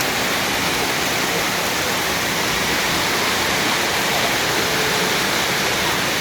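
Heavy rain pouring down close by, a steady dense hiss of falling water.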